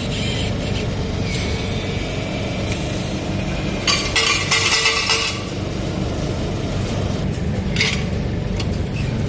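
Steady low hum of laundromat washers and dryers running. A burst of metallic clinking and rattling about four seconds in lasts about a second, and a shorter one comes near eight seconds.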